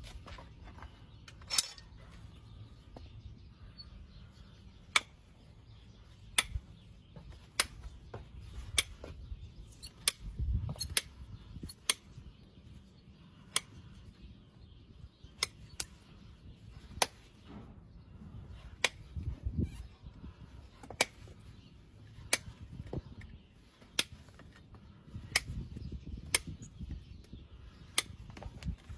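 Farrier's tools cutting into hoof horn during a hoof trim: a string of sharp snaps, one every one to two seconds, over faint low handling noise.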